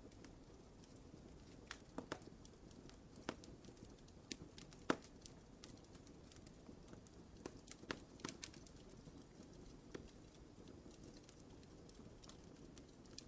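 Wood fire in a fireplace crackling: irregular sharp pops and snaps over a soft, low hiss of burning, with the loudest pop about five seconds in.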